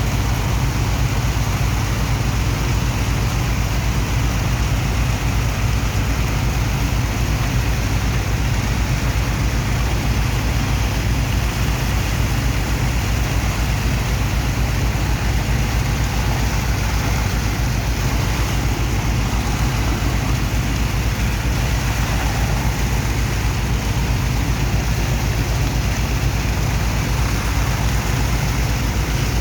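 Sand dredger's engine-driven pump running steadily while unloading sand from a barge: a loud, unchanging low hum with an even hiss of water and sand over it.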